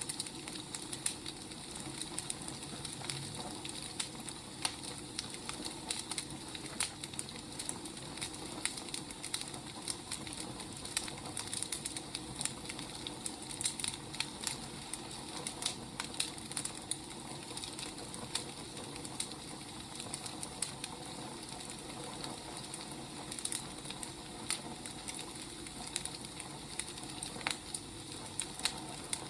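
Firewood burning, crackling with irregular sharp pops and snaps over a steady hiss.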